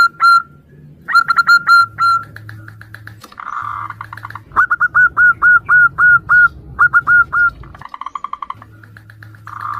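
Zebra doves (perkutut) calling back and forth: phrases of short, rapid, clipped cooing notes, several runs of about four to eight notes, with a couple of denser trilled bursts between them.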